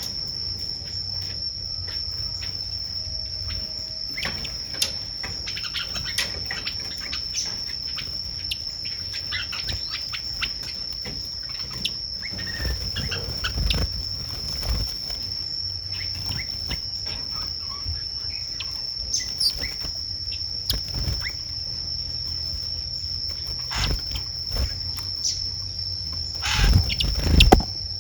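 Forest ambience: an insect holds one steady high-pitched drone while many birds chirp and call in short notes over it. A few louder low rumbles come near the end.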